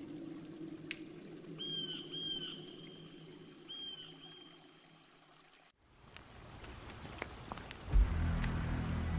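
Creek water running, with a few short high chirps over it in the first half. The sound drops away abruptly near the middle, and a deep low hit about eight seconds in opens sustained low music.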